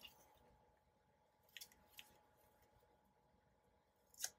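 Near silence with a low room hum, broken by a few faint clicks of paper and a sticker being handled, with one sharper click near the end.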